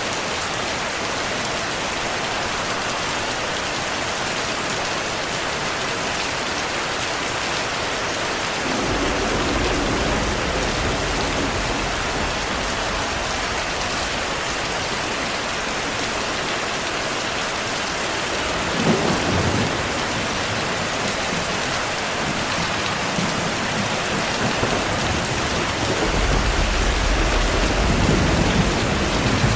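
Steady heavy rain with thunder rumbling three times: a low rumble about a third of the way in, a sharper clap midway, and a longer rumble near the end.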